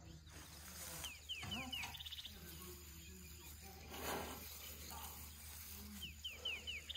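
A songbird singing the same short phrase twice: a quick run of four or five falling whistled notes ending in a fast high trill. There is a brief rustle about four seconds in.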